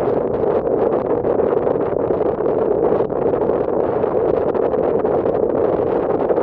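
Steady rushing drone aboard a moving ferry underway, its engines, the water past the hull and wind blending into one even noise with no breaks.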